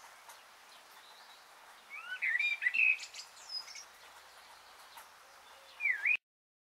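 Birds chirping and calling over a faint steady outdoor hiss: a cluster of chirps about two to three seconds in and one more call near six seconds. The whole bed cuts off abruptly just after six seconds.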